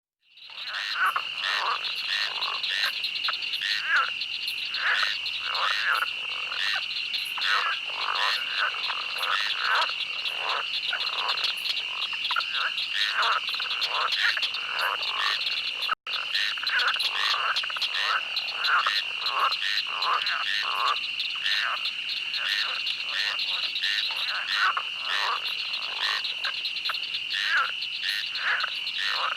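A dense night chorus of many frogs in a swamp, their quacking calls overlapping several times a second over a steady high-pitched drone. It fades in over the first second and breaks off for an instant about halfway through.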